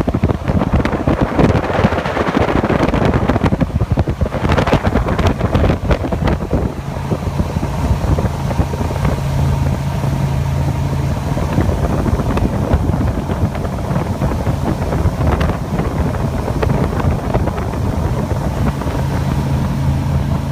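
Jet boat engine running steadily under heavy wind noise on the microphone; from about seven seconds in the low, even engine hum comes through more clearly.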